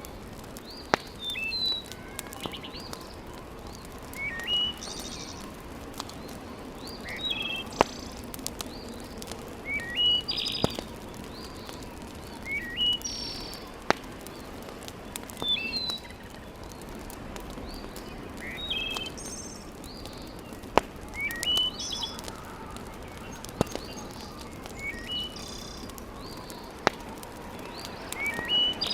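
A bird chirping in short, repeated phrases every two or three seconds over a steady background hiss, with about seven sharp pops from a wood fire burning in a fireplace; the pops are the loudest sounds.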